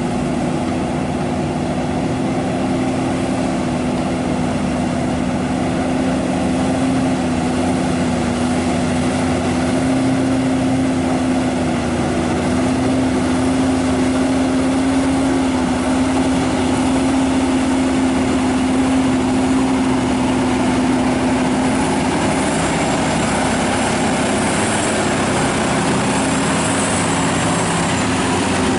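Scania R580's V8 diesel engine running at steady revs, a continuous drone with one strong held tone that wavers only slightly.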